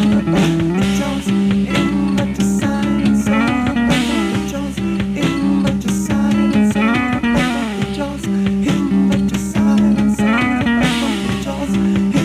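Instrumental music: guitar playing a melodic line with bending, gliding notes over a held low tone.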